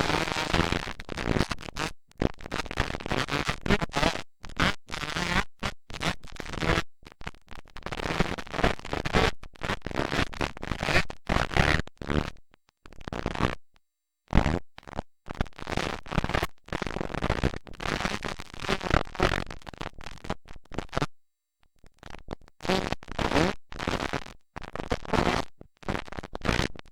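Rough, rumbling noise on a camcorder microphone that comes in choppy gusts and cuts out completely for moments many times over, typical of wind buffeting the mic.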